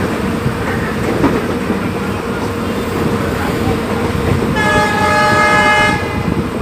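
Passenger train running, its wheels rumbling and clattering on the track, heard from an open carriage doorway. About four and a half seconds in, the train's horn sounds one steady blast of about a second and a half.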